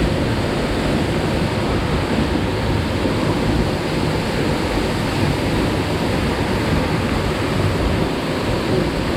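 Waterfall rushing: a steady, loud, unbroken roar of falling water.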